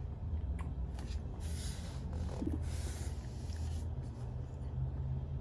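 A person chewing a bite of chocolate-covered marshmallow tea cake, with two soft hissing breaths in the middle, over a steady low hum.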